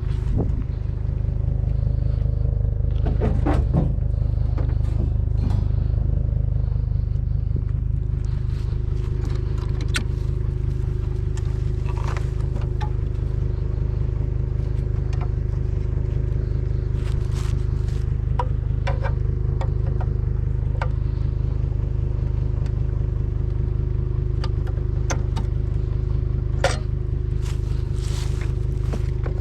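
Pickup truck running with a steady low engine rumble, with scattered light clicks and rattles over it.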